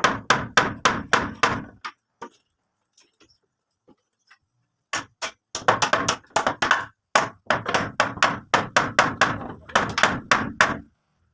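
Hammer blows struck in quick, regular runs of about three a second, with a pause of about three seconds in the middle.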